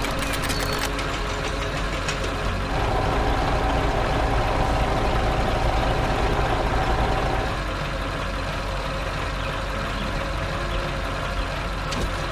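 Heavy vehicle engine running steadily, growing louder for a few seconds with a steady whine, then settling back to a lower running level.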